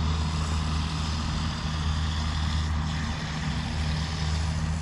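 2013 Honda Rancher four-wheeler's single-cylinder engine running steadily at cruising speed, a low even hum with a steady hiss over it.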